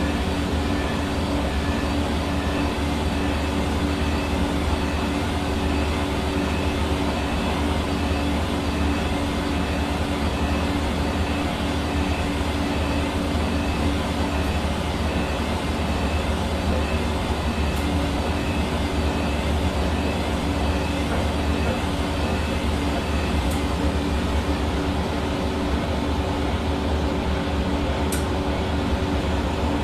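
Hair dryer running steadily: a constant fan rush with a motor hum, no change in speed or level.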